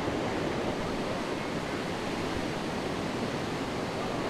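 Ocean surf breaking steadily, a dense continuous wash of waves from a tropical-storm swell.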